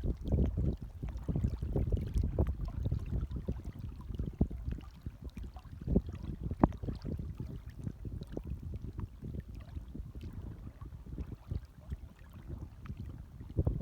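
Gentle small waves lapping and sloshing, an irregular run of low splashes with one sharper slap a little past halfway.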